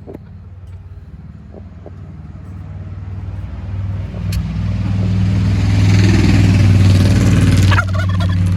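A motor vehicle's engine running close by, growing steadily louder over several seconds and dropping off sharply near the end.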